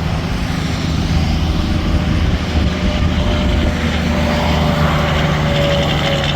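Semi-trucks passing on the interstate: a steady diesel engine drone with tyre and road noise, with no break.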